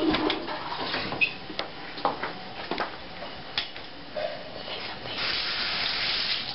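A few scattered knocks and clicks, then about a second of hissing rushing water near the end.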